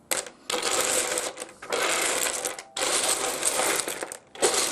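Many small pieces of rough opal clattering together as a hand stirs and rakes through the pile, in about four bursts of a second or so with short pauses between.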